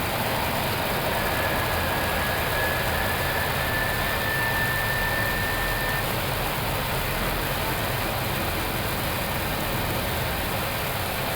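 Steady flight-deck noise of an Airbus A321neo on approach, airflow rush and engine hum, as the landing gear extends. A faint thin tone sounds from about a second in for about five seconds.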